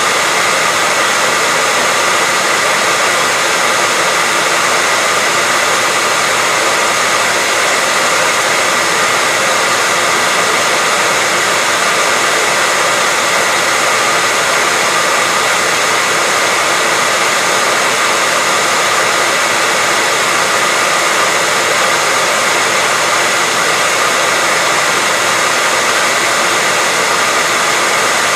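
Hairdryer running steadily: an even rush of blown air with a faint steady whine from the motor.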